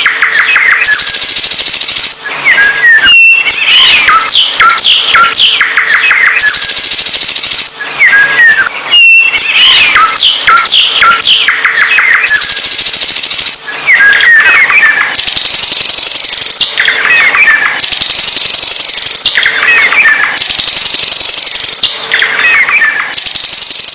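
A songbird singing loudly and vigorously, repeating phrases of rapid chirps, trills and high buzzy notes every two to three seconds.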